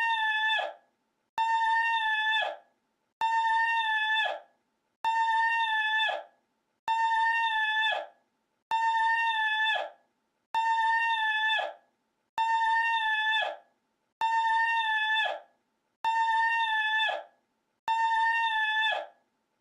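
One short recorded meme call, a high, steady, buzzy held tone that drops away at its end, looped over and over: about eleven identical repeats, one roughly every 1.8 seconds, with silence between them.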